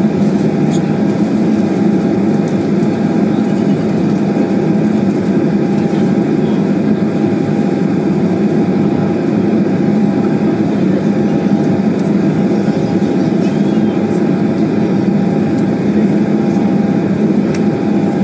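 Steady hum of a jet airliner's engines heard inside the cabin while the plane waits on the ground for takeoff, with a faint constant tone over even noise.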